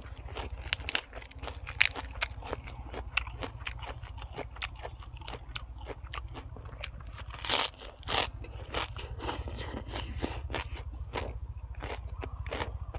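A person chewing and crunching food close to the microphone: a quick, irregular run of crisp crunches and chewing clicks, with two louder bites about seven and a half and eight seconds in.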